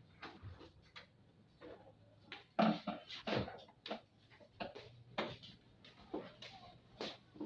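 Irregular short clicks and knocks, typical of tools and parts being handled while a washing machine is taken apart, the loudest cluster around the middle, over a faint steady hum.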